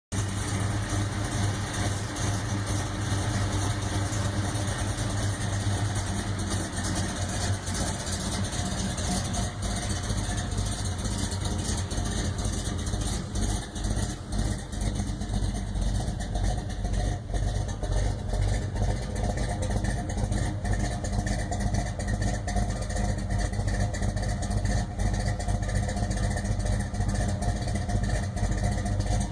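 1968 Plymouth Road Runner's 383 cubic-inch big-block V8 idling steadily with a deep, even rumble.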